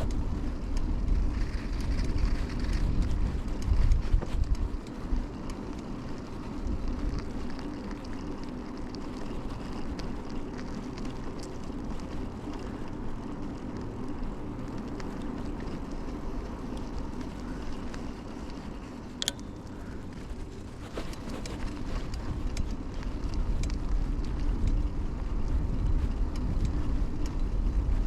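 Riding a 2000 Kona Blast mountain bike, heard from a chest-mounted camera: steady rush of wind and tyre noise on pavement, with small clicks and rattles from the bike, louder at the start and near the end. About two-thirds of the way through there is a single short high-pitched ping.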